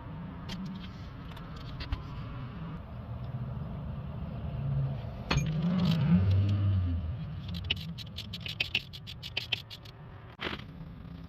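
Metal hand tools clinking and scraping during work on a truck's crankshaft position sensor, with a run of rapid clicks, about eight a second, about two-thirds of the way through, over a low rumble.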